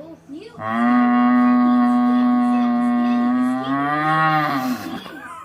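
A person's voice through a plastic tube imitating a cow's moo: one long call of about four seconds that starts low, jumps up to a steady held pitch, and sinks back down near the end.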